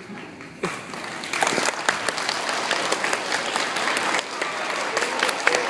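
Audience applauding, starting suddenly about half a second in and filling out into dense clapping, with a few louder individual claps near the end.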